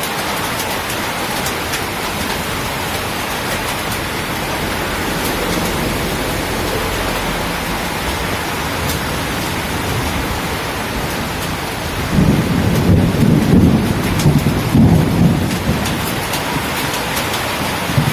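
Heavy rain pouring steadily. About twelve seconds in, a louder low rumble rises over the rain for roughly three seconds.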